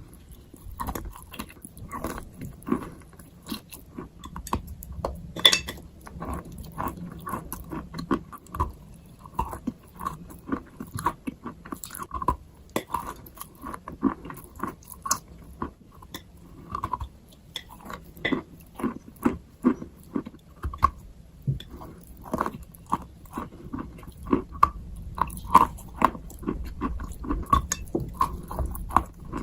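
Close-up crunching and chewing of chalk and baked clay pieces, a steady run of sharp, brittle crunches several times a second.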